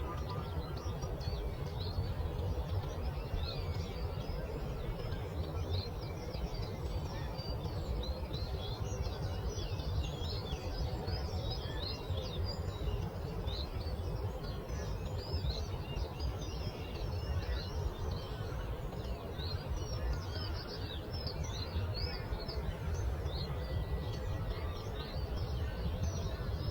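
Many small songbirds chirping and singing at once in a dense, continuous chorus of quick high notes, over a steady low rumble of breeze or distant running water.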